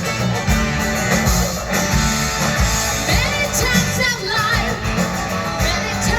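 Rock band playing live: electric guitar over bass and drums, with gliding, bending high notes about halfway through.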